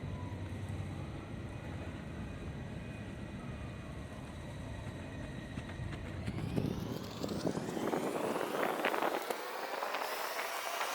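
Sydney Metro electric train running with a steady hum. About six seconds in, its motors' whine rises steadily in pitch over rising rail clatter as the train picks up speed.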